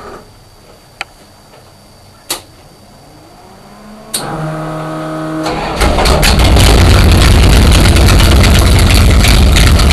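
408 stroker V8 (a stroked 360) in a Dodge Dart drag car being started: a few sharp clicks, a rising electric whine, about a second of starter cranking, then the engine fires about five and a half seconds in and runs loud.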